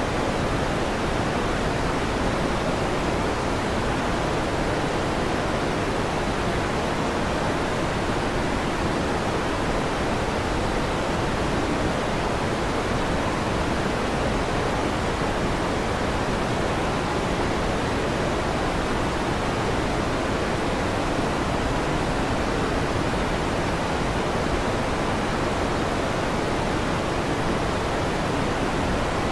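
Electric fan running with a steady, even whooshing noise that does not change, with no thunderclaps.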